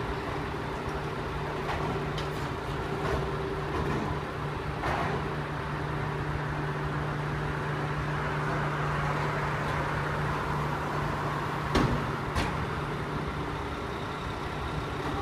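Garbage truck running with a steady hum while emptying a load of trash, with a few sharp knocks and bangs scattered through it. The hum stops near the end.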